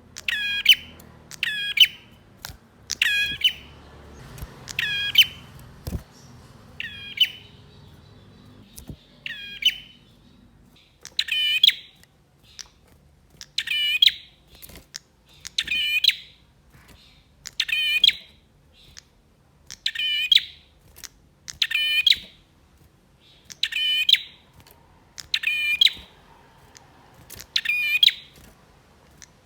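Male prenjak singing energetically, giving one short, sharp call over and over, about one every two seconds.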